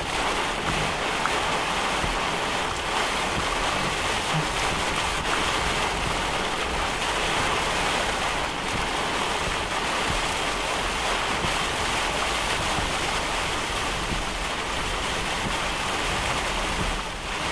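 Heavy wind-driven rain pelting a parked car's roof and windows, heard from inside the car as a steady dense hiss, with strong wind gusting around it.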